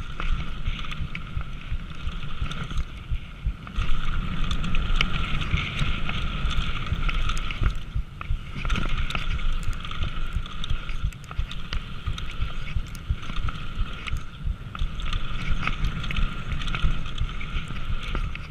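Downhill mountain bike descending a dirt trail, heard from a bike- or helmet-mounted action camera: wind rushing over the microphone, tyres rumbling on dirt, and constant clattering and rattling of the bike over rough ground, with a steady high buzz over it all.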